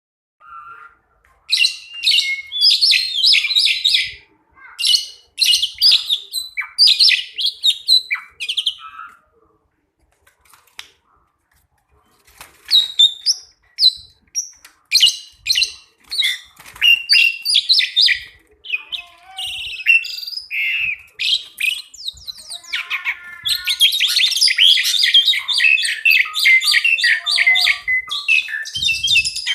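Two Asian pied starlings singing: bursts of whistled and chattering phrases, a pause of a couple of seconds near the middle, then a dense, unbroken run of rapid chattering song over the last six seconds.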